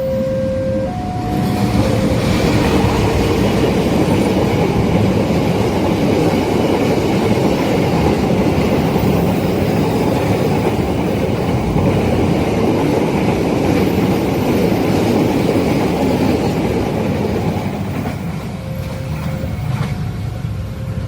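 A railway level-crossing alarm sounds in two alternating tones. About a second and a half in, a fast train passing over the crossing drowns it out with the loud, continuous noise of its wheels running on the rails for about sixteen seconds. The noise then eases, and the alarm's alternating tones return near the end.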